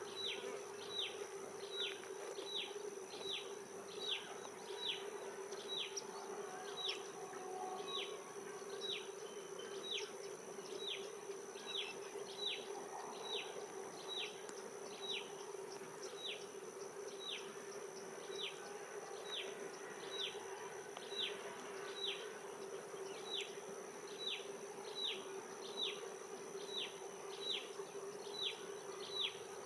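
Outdoor animal ambience: a steady buzzing drone under a short, high chirp that falls in pitch, repeating a little more than once a second.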